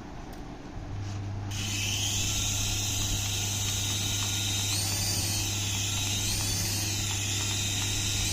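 Small electric motor of a remote-control toy starting up and running with a steady high whine over a low hum, its pitch briefly rising and falling twice.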